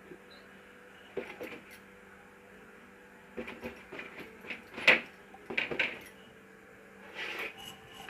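Scattered light knocks and clatter of dishes being handled, the sharpest about five seconds in, over a faint steady hum.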